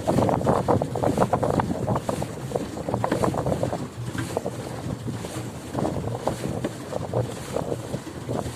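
Wind buffeting the microphone aboard a small boat moving on a lake, with the irregular rush of water and wind. The gusts are strongest in the first few seconds, then ease a little.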